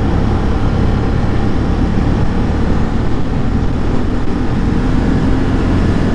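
Motorcycle riding at a steady road speed: engine and wind noise in a steady low rumble.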